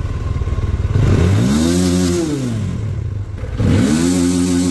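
Dayun DY-200 Titan motorcycle's 200 cc fuel-injected engine, fitted with a balance shaft, idling and revved twice. Each rev climbs and falls back over about two seconds, the first about a second in and the second near the end.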